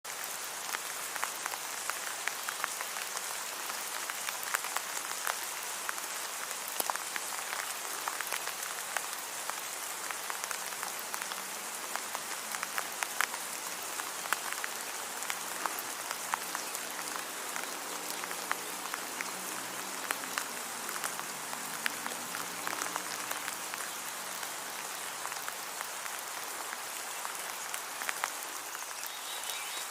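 Steady rain falling, an even hiss with many separate drops striking close by.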